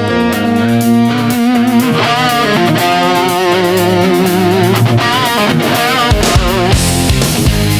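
Instrumental rock music: an electric guitar with some distortion plays a melody of held notes with a wavering pitch, and a heavy low beat comes in about six seconds in.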